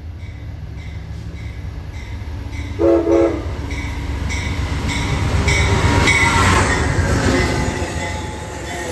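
A train passing close by, sounding two short horn blasts about three seconds in. Its rumble builds to its loudest a few seconds later and then eases off, with regular wheel clicks over the rail joints about three a second.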